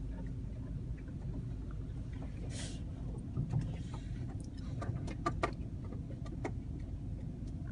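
Steady low hum of a car heard from inside the cabin, with scattered sharp taps and clicks, most of them bunched together a little past the middle.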